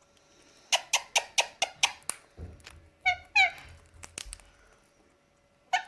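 A quick run of about seven sharp clicks, then two short, harsh squawks from an Indian ringneck parrot, with a few low bumps of handling and one more click near the end.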